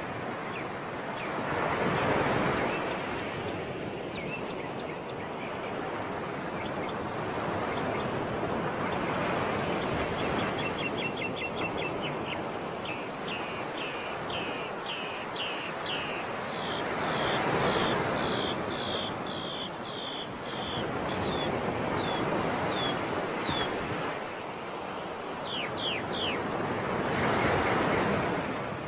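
Sea waves washing onto the shore, swelling and falling back about every eight seconds. A bird sings through the middle, a long run of quick, repeated chirps, then a few shorter phrases near the end.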